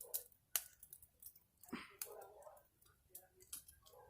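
Small campfire crackling, with scattered irregular pops and snaps and one sharper snap about half a second in. Faint muffled voices now and then.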